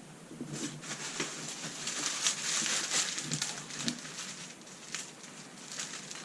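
Packing material crinkling and rustling as parts are dug out of a shipping box, with a few light knocks.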